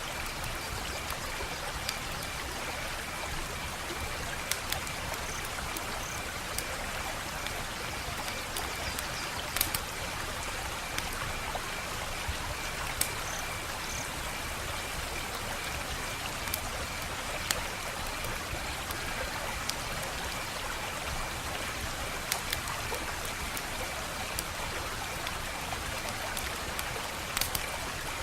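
Wood fire burning with a steady hiss and scattered sharp crackles and pops, a couple of them louder than the rest.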